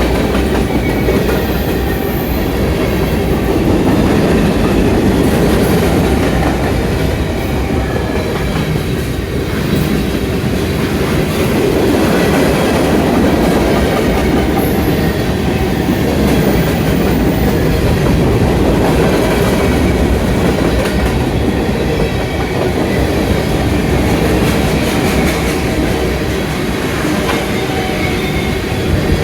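CSX freight train cars rolling past, a continuous steady rumble of wheels on rail.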